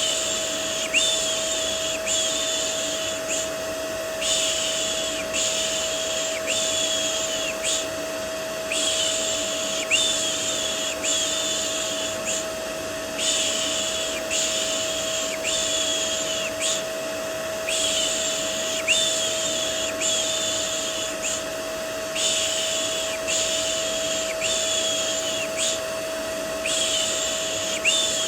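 Vacuum cleaner running steadily with a constant motor whine, overlaid with a repeated 'shh' shushing sound for soothing a baby. The shushes come about once a second in groups of four, with a short pause between groups.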